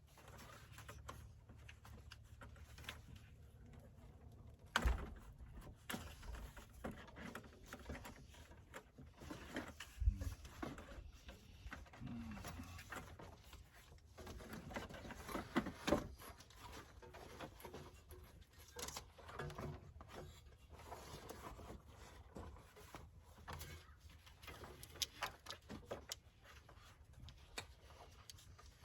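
Scattered knocks, clicks and handling noises from hand work on RV interior panels and trim, over a steady low hum. The sharpest knocks come about 5, 10 and 16 seconds in.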